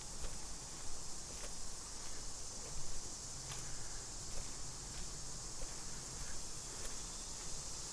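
Steady high-pitched drone of insects such as crickets, with a few scattered light clicks and steps through the undergrowth.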